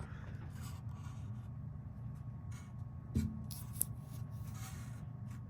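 Faint handling noises, light rubbing and scraping, with one soft knock about three seconds in, over a steady low hum.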